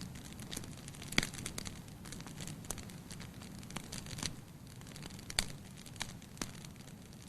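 Firewood burning in a fireplace: a low steady rush of flame with irregular sharp crackles and pops, the loudest about a second in and again past the five-second mark.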